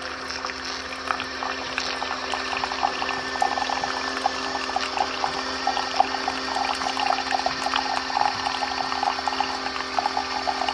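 Keurig K-Mini single-serve coffee maker brewing. Its pump hums steadily under irregular gurgling as hot water is forced through the K-cup and streams into the cup.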